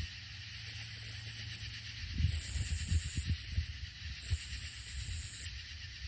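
Cicadas singing in repeated high, hissing phrases, each about a second long, three in a row with short pauses between them. Faint low rumbling sounds underneath.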